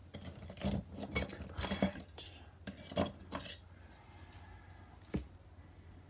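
Painting tools being handled at the palette: a quick run of small clinks and knocks over the first three seconds or so, then one more sharp knock about five seconds in.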